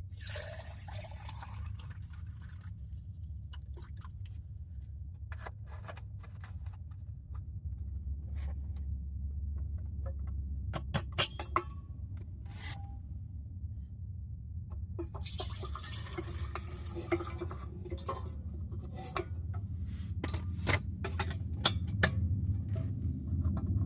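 Water poured into a container while making coffee, with a rushing pour at the start and again about 15 seconds in. Between and after the pours come sharp clicks and brief ringing clinks of cups and kitchen things, over a steady low hum.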